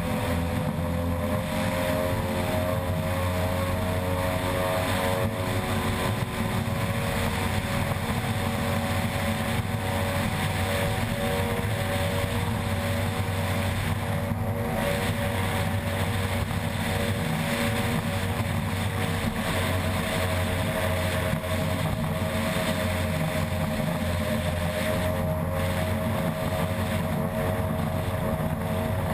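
Racing ski boat's unlimited outboard engine running flat out at a near-steady pitch, with small shifts in revs, under a constant rush of noise.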